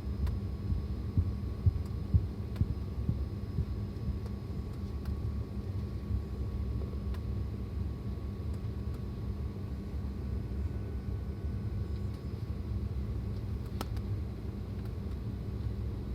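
Steady low rumble and hum inside a parked airliner's cabin, with a few faint clicks.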